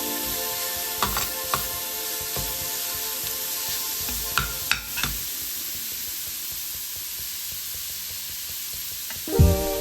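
Food sizzling in hot oil in a pan while it is stirred, with a few sharp clicks of the spoon against the pan in the first half.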